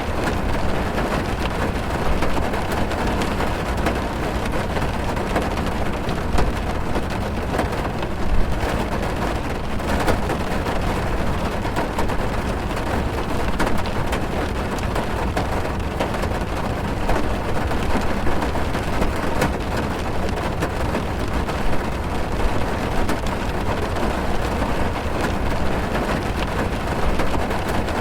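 Heavy rain drumming on a car's roof and windows, heard from inside the car: a steady, dense patter with scattered louder drops over a low rumble.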